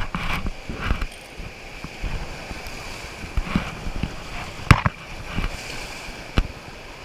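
River water rushing and splashing around a paddled raft, with wind buffeting the microphone. There are two sharp knocks, one a little after the middle and one near the end.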